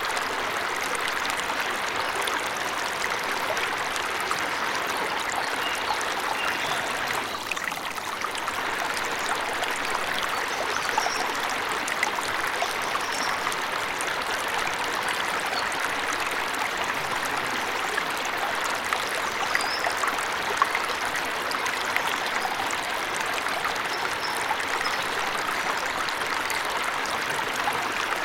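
Steady rush of a forest waterfall, with a few faint high bird chirps here and there.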